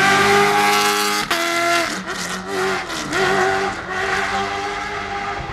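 Ford Raptor T1+ Dakar truck's 5.0 V8 running at high revs, with a sharp crack a little over a second in, then the revs dropping and climbing again several times.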